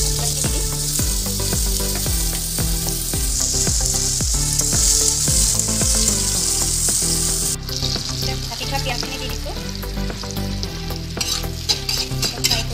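Chopped ridge gourd dropped into hot oil in an iron kadai, sizzling loudly as a metal spatula stirs it. The sizzle cuts off suddenly about seven seconds in, giving way to quieter frying with the spatula scraping and clinking against the pan near the end.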